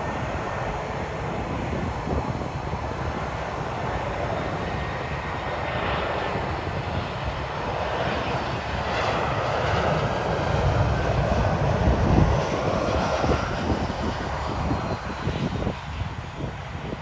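Airbus A319-111 jet airliner with CFM56 turbofans passing by. The engine noise builds to a peak about two-thirds of the way in, with a whine that slides down in pitch as it goes past, then fades.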